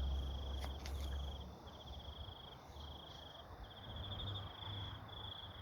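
Crickets chirping: a high, pulsing trill repeated in stretches of under a second with short breaks between them. A low rumble sits under it in the first second and a half.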